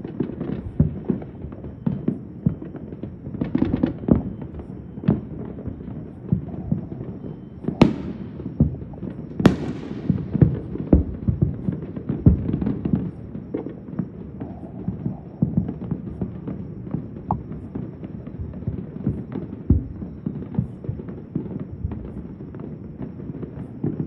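Many fireworks and firecrackers going off at once: a constant, irregular scatter of booms and pops. Two sharper, louder bangs come a second and a half apart about a third of the way in.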